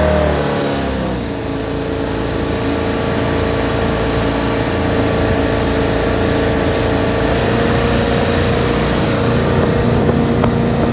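Jet boat engine easing off: its pitch falls over the first second or so, then it runs steadily at lower revs over a constant rushing noise.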